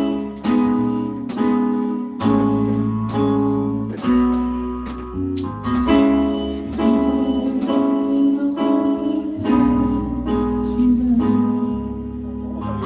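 A band playing the instrumental intro of a rock ballad: full chords struck on a steady beat, about one every 0.8 seconds, each left ringing over a bass line.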